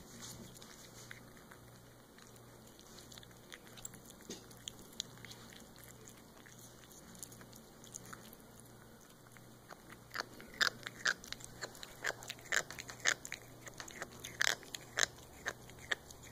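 A jaw clicking and crunching as it works. There are a few faint clicks at first, then from about ten seconds in a run of sharper clicks, roughly two or three a second.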